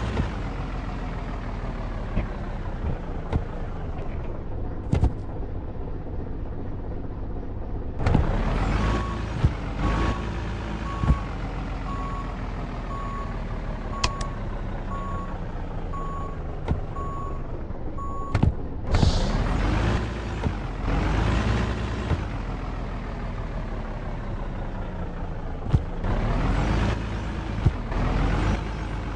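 Truck engine running and repeatedly revving up and easing off as it pulls away and changes speed, with occasional knocks and rattles. For about ten seconds in the middle a high electronic beep sounds about once a second.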